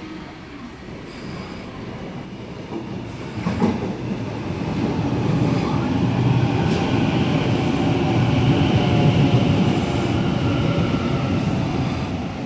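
Sydney Trains double-deck electric suburban train running in close along the platform: the rumble of its wheels on the rails grows louder from about four seconds in, then holds as the carriages go by.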